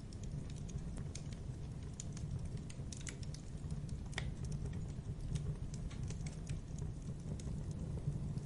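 Wood fire burning: irregular crackles and small pops over a steady low rumble, with one sharper pop about four seconds in.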